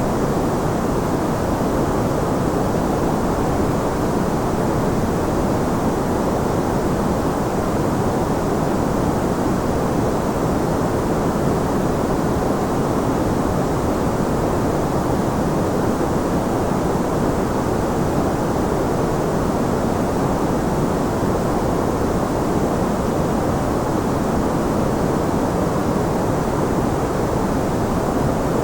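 Steady white noise played for sleep: an even, deep hiss with most of its weight in the lower and middle pitches, unchanging throughout.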